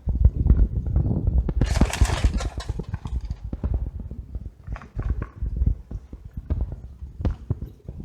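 Bike-mounted camera rattling and knocking over the bumps of the ride, with heavy wind rumble on the microphone. A burst of hiss comes about two seconds in.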